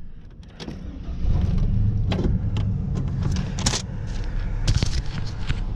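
Vehicle engine running and driving off, growing louder about a second in, with scattered clicks and rattles.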